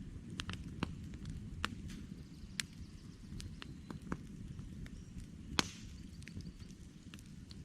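Wood campfire crackling: irregular sharp pops and snaps over a steady low rumble of the burning logs. One louder pop comes about five and a half seconds in.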